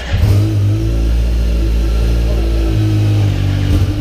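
Kawasaki H2's supercharged 998 cc inline-four engine catching just after the start and then running steadily at a low, even speed.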